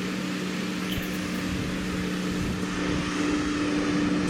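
Caterpillar D6H bulldozer's diesel engine running steadily, a little louder late on.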